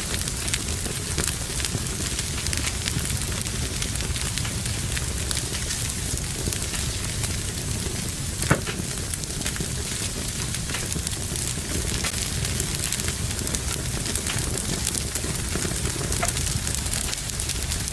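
Wood fire burning in a fireplace, crackling steadily with many small snaps and one sharper, louder pop about halfway through.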